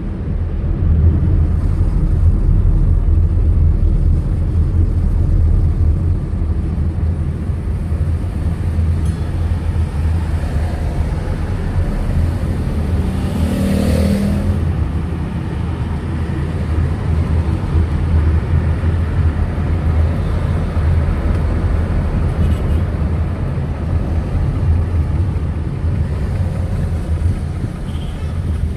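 Steady low rumble of a car driving on the road, engine and tyre noise, with a vehicle passing close about halfway through.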